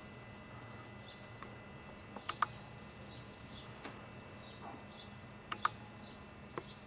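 Sharp clicks from a laptop's keys and mouse buttons, a few single and some as quick double-clicks, over a low steady hum, with faint bird chirps.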